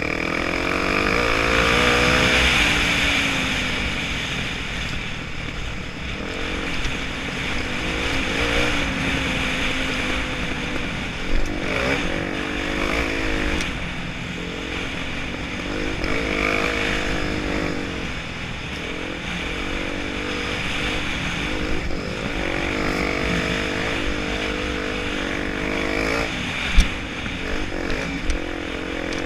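Honda Tornado 250's single-cylinder four-stroke engine running under load as the bike is ridden, its revs rising and falling repeatedly. A couple of sharp knocks stand out, one about eleven seconds in and a louder one near the end.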